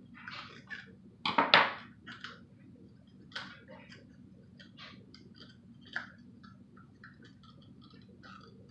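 Hands working on parts: scattered light clicks and scrapes, with a louder clatter of knocks about a second and a half in, over a low steady background hum.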